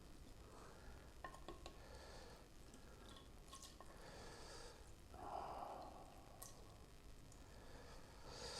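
Faint eating sounds: soft chewing with small mouth and utensil clicks, and a slightly louder brief rushing sound about five seconds in.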